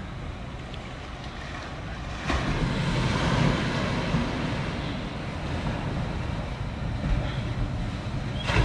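Wind buffeting the microphone over the wash of ocean surf, growing louder about two seconds in.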